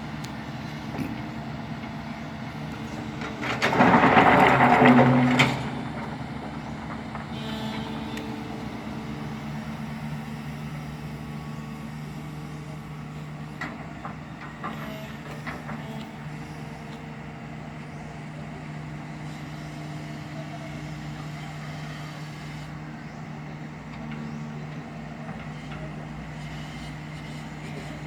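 Backhoe's diesel engine running steadily, with a much louder, harsher burst about four seconds in that lasts around two seconds.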